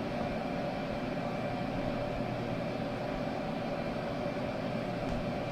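Steady whir and hum of a Weedo M2 desktop 3D printer's fan while its nozzle heats up before printing.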